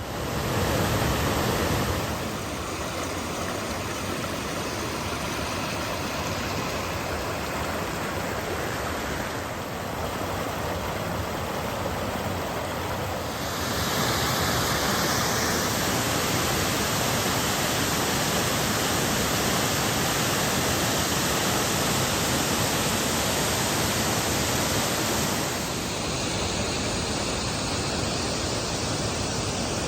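Waterfall: a steady rush of falling water, stepping louder about halfway through.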